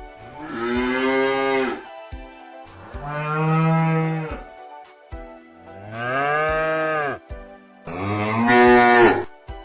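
Cattle mooing: four separate long moos, each rising and falling in pitch, some deeper than others.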